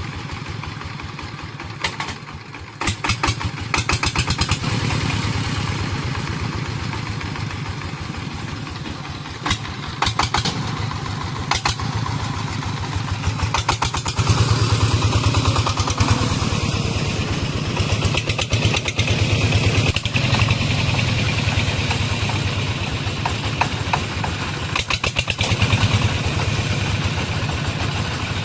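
Single-cylinder diesel engine of a công nông, the Vietnamese two-wheel-tractor farm truck, running with a fast, even chugging and some rattling clatter. It gets louder about 14 seconds in.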